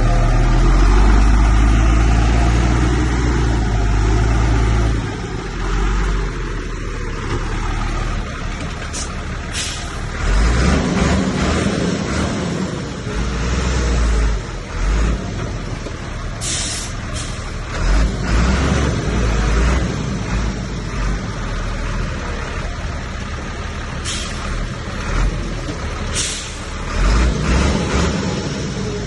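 Heavy diesel earthmoving machinery working, its engine rumble rising and falling with the load. Several short, sharp hisses cut in high over the engine.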